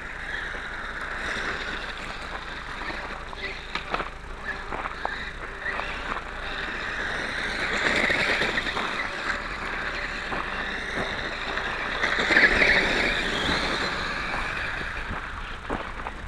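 Small R/C motorcycle's motor whining, rising and falling with the throttle as it is driven slowly, loudest twice, about halfway through and again about three quarters of the way in, with a few scattered clicks.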